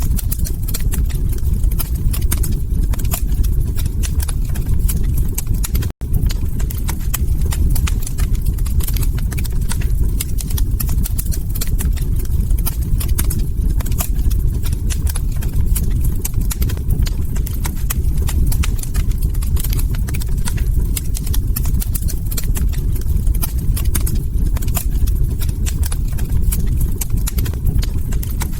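Log fire crackling: dense, irregular pops and snaps over a steady low rumble. The sound cuts out for an instant about six seconds in.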